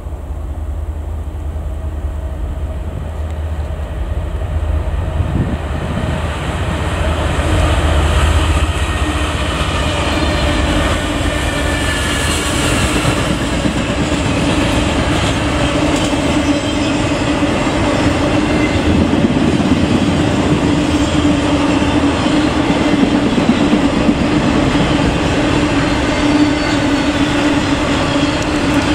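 Norfolk Southern intermodal freight train: the lead diesel locomotives approach and pass with a low engine rumble, then the trailer and container cars roll by with steady wheel-on-rail noise and a sustained ringing tone from the wheels.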